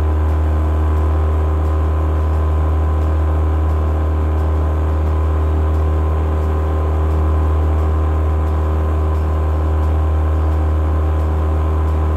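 A loud, steady low drone with several held tones above it, starting and stopping abruptly, with no change in pitch.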